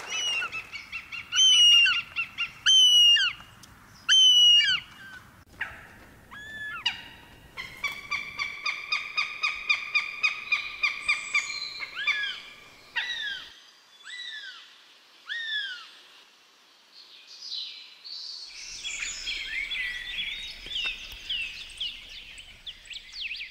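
Birds calling: three loud hooked calls about a second and a half apart, then a fast run of repeated notes, a few downward-swooping calls, and a burst of overlapping chirps near the end.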